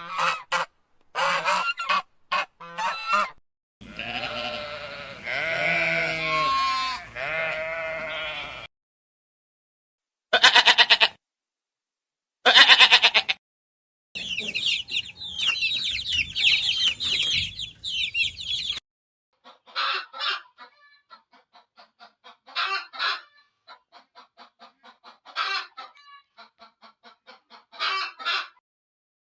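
Farm poultry calling: geese honking and chickens clucking, in a run of short clips that start and stop abruptly, with a stretch of dense high-pitched chatter in the middle.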